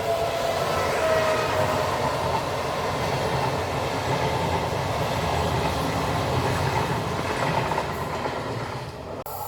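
A train running past on the rails, a steady rumble and rolling noise, with a brief dropout near the end.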